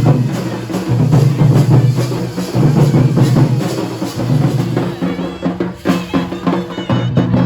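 Kurum dhol drums played fast, with dense rapid strokes and a heavy deep boom. The strokes become sparser and more spaced out in the last couple of seconds.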